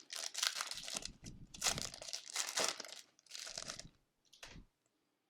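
Foil wrapper of a hockey card pack being torn open and crinkled, in several bursts, stopping suddenly about four and a half seconds in.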